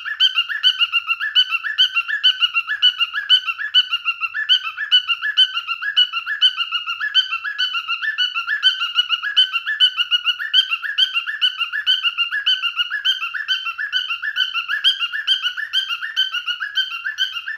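Cockatiel screeching: short, shrill calls repeated evenly about three times a second without a break.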